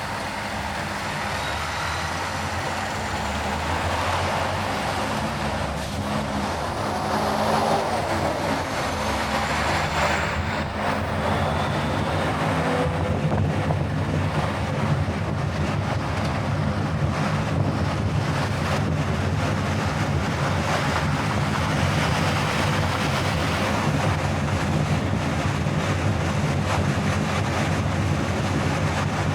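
Steady road and engine noise of a car driving along a highway, growing a little louder over the first several seconds.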